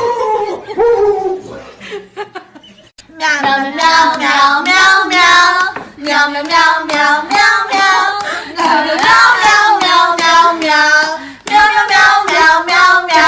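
High-pitched, sung-sounding vocalising in short wavering phrases. It fades about a second in and returns in a run of phrases from about three seconds in.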